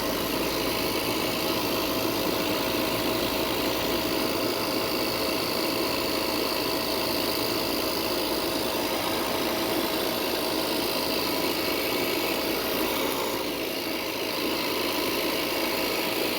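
A machine running steadily with a constant hum and one unchanging tone.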